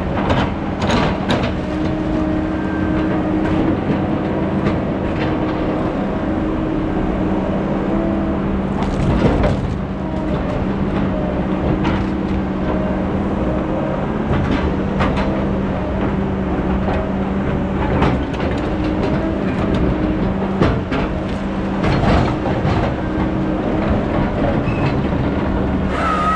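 Heavy logging equipment's diesel engine running steadily under load, with scattered metallic clanks and knocks from the machine working.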